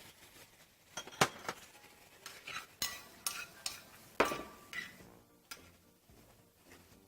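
A metal utensil clinking and knocking against a pan as sautéing vegetables are stirred. The clinks are sharp and ringing, in an uneven string, with the loudest about a second in and again just past four seconds.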